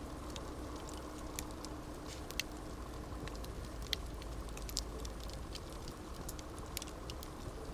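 Wood campfire crackling: steady low noise of the burning fire with frequent small, sharp crackles and pops at irregular intervals.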